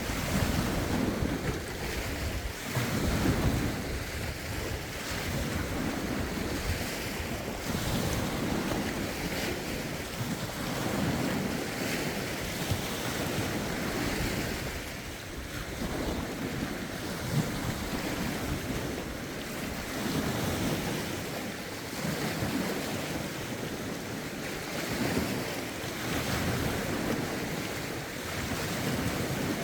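Lake waves washing in under a rough wind, swelling and ebbing every couple of seconds, with wind buffeting the microphone.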